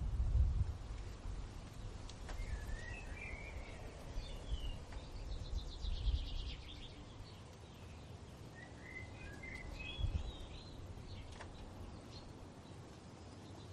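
Songbirds singing: two short warbling phrases several seconds apart, with a fast, higher trill between them, over a low rumble of wind that gusts at the start and again near the end.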